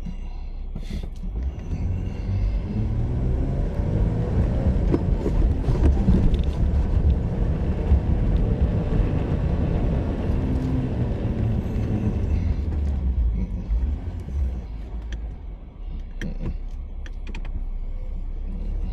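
A Jeep's engine working hard under load, trying to climb a steep slope of deep soft sand. The rumble builds over the first few seconds and eases off about three-quarters of the way through as the Jeep bogs down in the soft sand, too heavy to make the climb.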